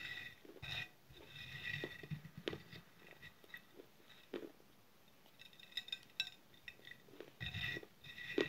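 Close-up chewing and crunching of hard, brittle baked clay, in short repeated bursts. Sharp little clicks come in between, from fingertips tapping and scraping crumbs on a clay saucer.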